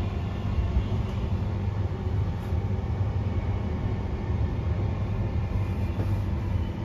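Interior running noise of a Queensland Rail NGR 700 series electric multiple unit travelling between stations: a steady rumble of wheels on track with a faint steady whine.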